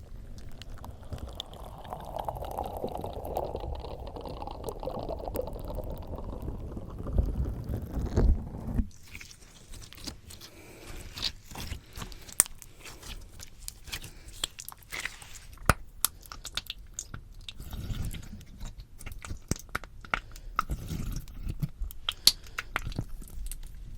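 Slime squished against a microphone up close: a dense, continuous squishing with low thumps for the first nine seconds or so, then it changes to sticky popping, many sharp scattered clicks and pops as it pulls away from the mic.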